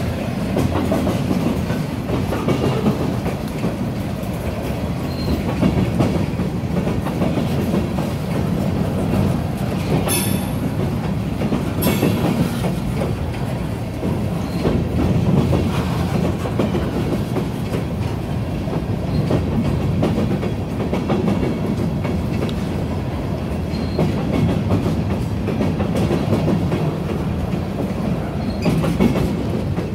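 Freight train cars rolling past close by: a steady rumble of steel wheels on rail with clicking over the rail joints. About ten and twelve seconds in there are two brief, sharp high noises.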